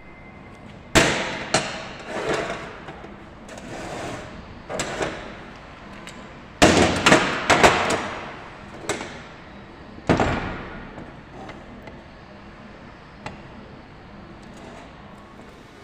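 A series of sharp knocks and clanks, each with a short ringing decay, some spaced out and several in quick succession in the middle, tailing off to a low steady background after about eleven seconds.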